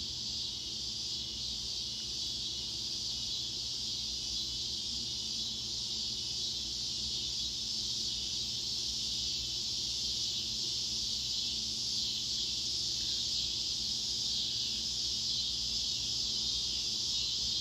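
Steady high-pitched chirring, like a chorus of crickets, with a faint low hum underneath.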